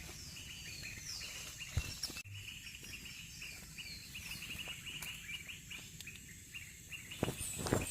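Small birds chirping outdoors: a dense run of quick repeated chirps with several short descending whistles over it, against a steady high insect drone. A sharp click about two seconds in and a few low knocks near the end.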